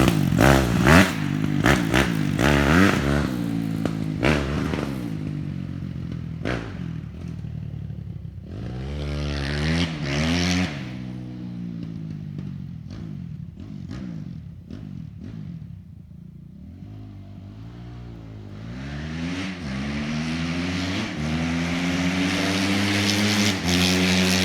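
Dirt bike engine revving up and down as it is ridden, with knocking and clattering in the first few seconds. It fades down in the middle, then grows steadily louder near the end, revving higher as it comes closer.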